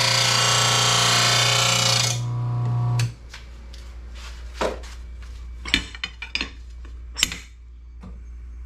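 An RBG 712 blade sharpener's grinding wheel grinds a steel mower blade edge, a loud hiss over the motor's steady hum. The hiss stops about two seconds in, and the hum cuts off about a second later as the motor is switched off. Then come several sharp metal clinks and knocks as the blade is handled.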